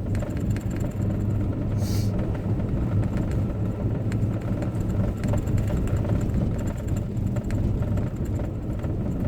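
Steady low drone of a four-wheel-drive vehicle driving in high gear, engine and road noise heard from inside the cabin. A brief hiss about two seconds in.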